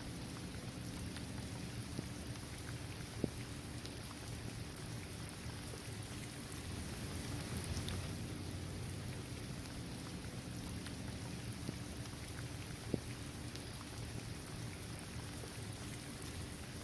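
Steady rain falling on a paved basketball court, trees and grass, an even hiss dotted with individual drop ticks. Two sharper ticks stand out, one about three seconds in and one about thirteen seconds in.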